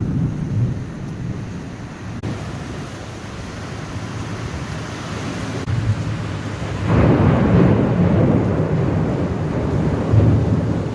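Rain falling steadily in a thunderstorm, under low rumbling thunder. A louder roll of thunder builds about seven seconds in and carries on.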